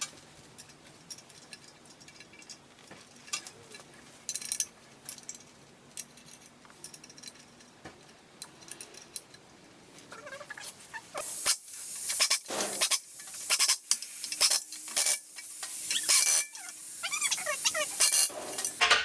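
Tools and metal parts being handled in a workshop: scattered light clicks at first, then from about ten seconds in a busier run of sharp clicks and hissing scrapes.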